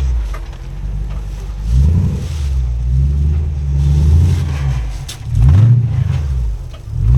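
Off-road rock-crawling rig's engine working under throttle on the trail, its pitch swelling up and easing back three times as the driver feeds in power.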